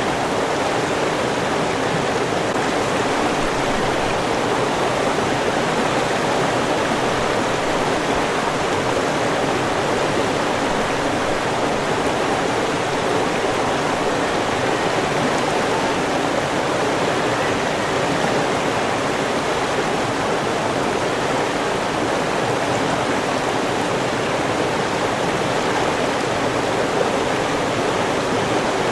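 River water flowing steadily, a continuous even rushing with no breaks or changes.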